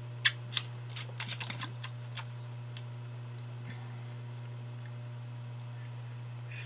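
A quick run of about nine light, sharp clicks over the first two seconds, then only a steady low hum.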